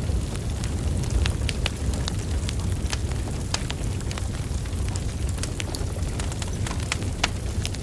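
Wood fire burning: a steady low rumble of flames with many sharp, irregular crackles and pops from the burning logs.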